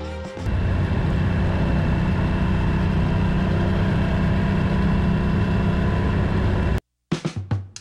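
Motorcycle engine running steadily under way, with wind and road rush; it cuts off suddenly near the end.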